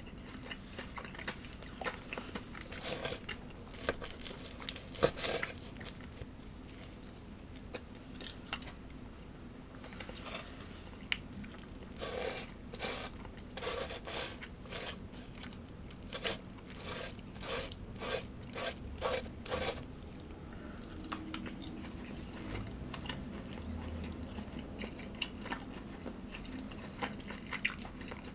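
A person biting and chewing crunchy food close to the microphone, with a regular run of chews in the middle stretch at about three every two seconds.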